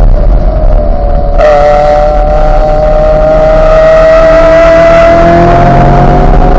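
Chevrolet Corvette C8's 6.2-litre V8 pulling hard on track, its note climbing slowly as the car accelerates through a gear. About a second and a half in, the sound jumps and turns brighter.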